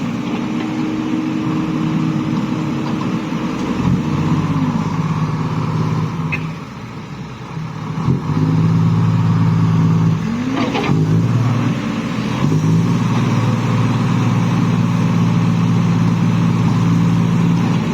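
A vehicle engine running steadily, its speed dropping and picking up again several times.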